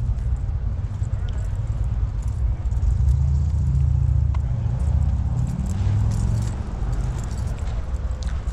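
Low rumble of a car engine running, louder a few seconds in and easing off again near the end.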